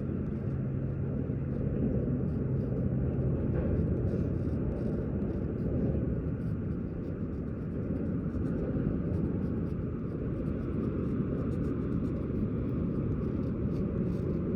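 Steady low outdoor rumble, with a faint hum that stops about three seconds in.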